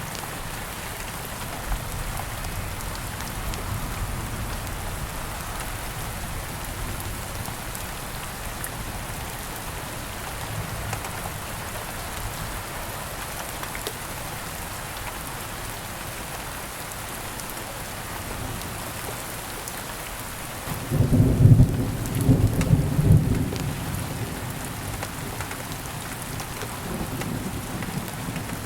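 Steady rain falling, with the odd faint crackle of a campfire. About three-quarters of the way in, a loud low roll of thunder rumbles for a few seconds and dies away.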